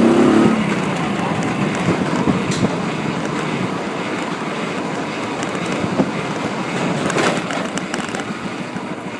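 A vehicle on the move: a pitched engine drone fades about half a second in, leaving steady rumbling road and wind noise with scattered knocks and rattles.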